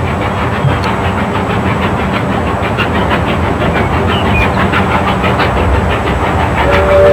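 Steam train running along the track with a steady clatter and faint regular beats. Near the end the locomotive's steam whistle starts to blow, several tones together, loud.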